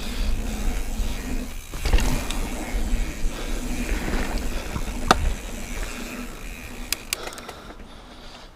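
Mountain bike riding over a sandy trail: a steady low rumble of wind and trail noise with bike rattle, one sharp knock about five seconds in and a couple of lighter clicks shortly after, the rumble easing near the end.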